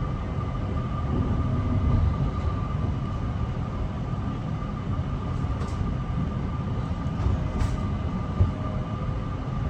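Mariyung D-set electric train: a low, uneven rumble with a steady high whine over it and a few faint clicks.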